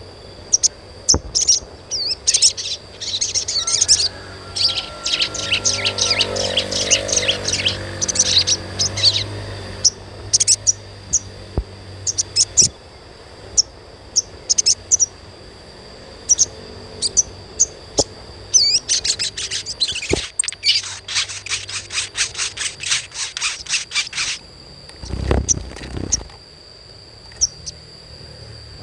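Sogon (sogok ontong) bird calls: rapid, high-pitched twittering in two long dense runs, with scattered single chirps between them. A steady high tone runs underneath, and there is a low thump near the end.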